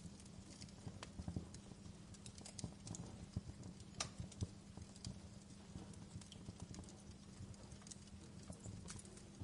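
Wood fire crackling in a fireplace: irregular sharp pops and snaps over a low steady hum, with a louder pop about four seconds in.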